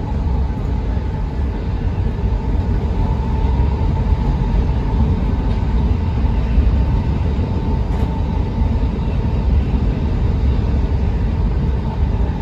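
Running noise of a JR E657 series limited-express electric train heard from inside the carriage as it travels at speed: a steady, heavy low rumble of wheels on track with a faint steady whine above it.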